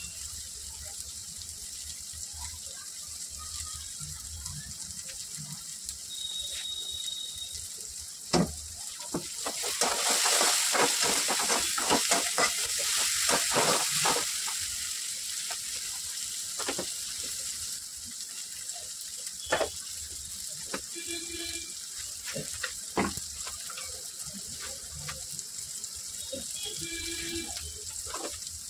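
Diced potato, carrot, onion and tomato frying in oil in a metal kadhai, a steady sizzle, with a flat metal spatula scraping and knocking against the pan. About ten seconds in the sizzle grows louder for a few seconds, full of quick scraping clicks as the vegetables are stirred, and a few single sharp knocks of the spatula come later.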